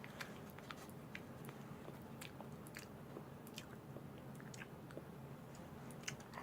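A person chewing a mouthful of paper: faint, irregular wet clicks and crunches.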